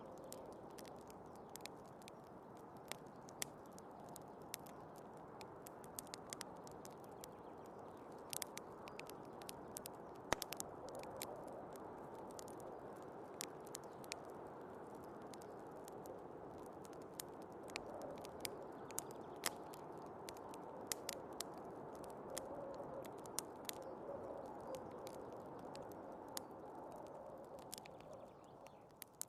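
Wood fire crackling with frequent irregular sharp pops, over a steady rush of snowstorm wind.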